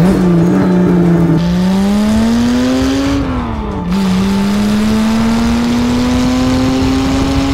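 Lister-Jaguar Knobbly's Jaguar straight-six engine accelerating through the gears: the revs drop with a shift right at the start, climb, fall again with another upshift about three seconds in, then climb steadily.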